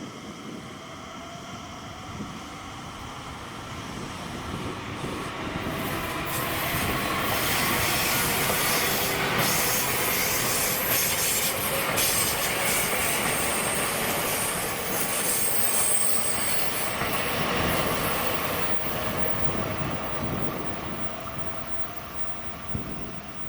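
Electric train running past on the rails, building up over several seconds, staying loud for about twelve seconds, then fading. A thin, high wheel squeal rises over the rumble of the wheels near the middle.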